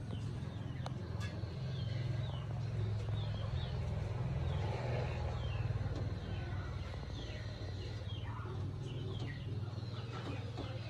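Birds chirping: many short, falling chirps repeated through the whole stretch, over a steady low hum.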